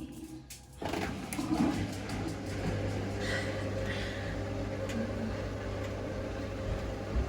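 Hoover Link washing machine on its spin-only programme. The sound drops away briefly, and just under a second in the machine starts up again. From about two seconds in it settles into a steady low motor hum.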